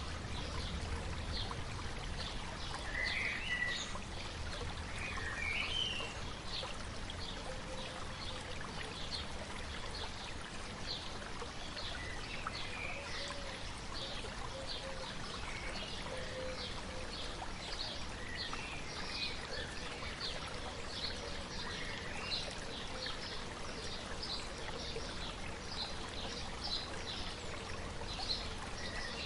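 Shallow stream babbling steadily, with birds singing over it: a run of short, high chirps repeated about twice a second, and a few warbling phrases in the first few seconds.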